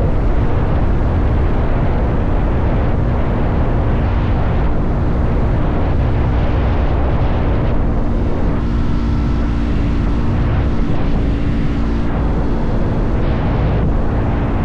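Motorcycle engine running at a steady cruising speed, its pitch holding level, under a heavy low rumble of wind and road noise on the microphone.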